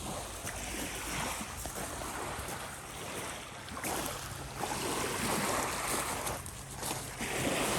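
Wind rumbling on the microphone over small waves lapping at a lake shore, the noise swelling and easing every second or so, with a faint steady low hum underneath.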